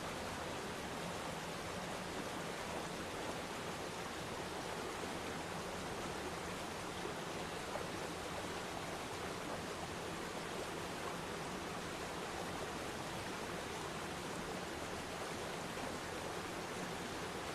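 Waterfall pouring into a pond: a steady, even rush of falling water.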